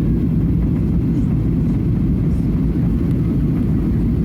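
Steady low rumble of an airliner's engines and rushing air, heard from inside the passenger cabin during the descent to land.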